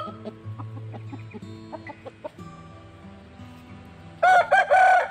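Chicken calling: near the end, a quick run of four loud, short, pitched squawks, each rising and falling.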